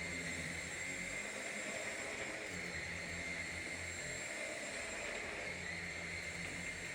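Vacuum cleaner running steadily, a constant motor rush with a steady high whine.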